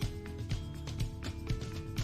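Instrumental background music with a steady beat of about two pulses a second, played under a TV local weather forecast segment.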